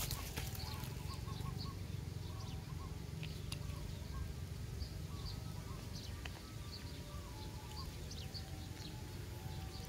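Small birds chirping, many short repeated calls, over a low steady rumble. A few faint clicks come from plastic toy blocks being handled and fitted together.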